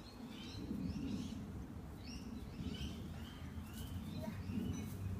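Birds chirping: many short, high calls overlapping throughout.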